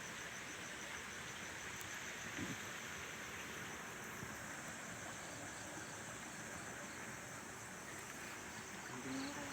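Insects chirping, a high, rapidly pulsing trill over a steady background hiss.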